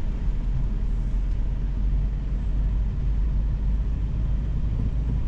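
Steady low rumble of a car running, as heard from inside its cabin.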